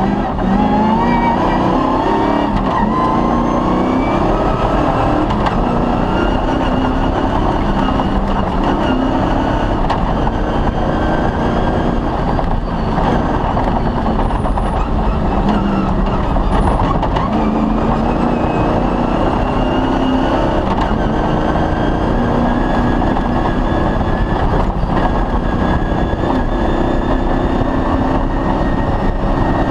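Off-road rally vehicle's engine running hard at a stage pace over rough ground, its pitch climbing slowly under acceleration early on and again in the second half, with a brief drop near the middle as the throttle eases or a gear changes.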